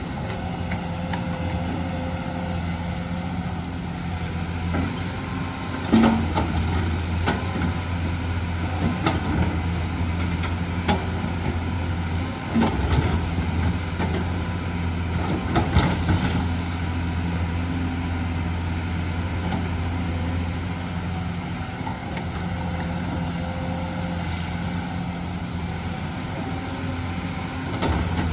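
Hyundai excavator's diesel engine running steadily at working speed, with a few sharp knocks and clanks from the bucket and rock, the loudest about six seconds in and others near the middle.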